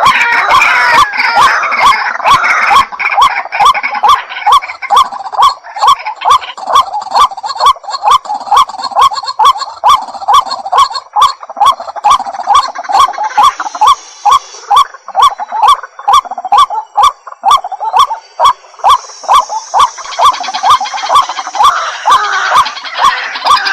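White-breasted waterhen calling: a long, unbroken run of short, evenly repeated notes, about two or three a second.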